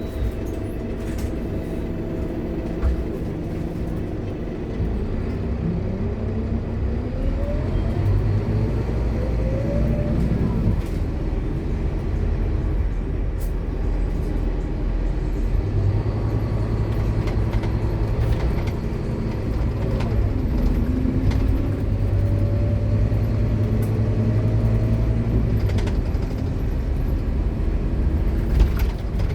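Scania K230UB Omnilink bus under way, heard from on board: the diesel engine runs under a loud ZF Ecomat automatic gearbox whine. The whine climbs in pitch as the bus accelerates, then gives way to a steadier low drone.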